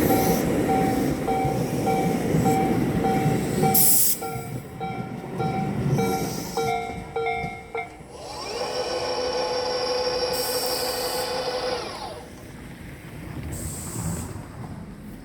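Japanese level crossing bell ringing, a two-tone clang repeating about twice a second, over the rumble of a Tobu 8000-series electric train running past. The bell stops about eight seconds in. A steady pitched whine then rises, holds for a few seconds and falls away.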